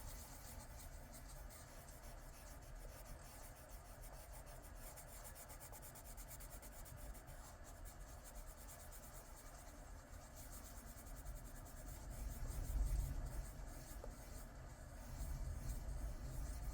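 Coloured pencil scratching across paper in quick, steady back-and-forth strokes while filling in a shape. Low handling sounds from the hand and paper rise about two thirds of the way through.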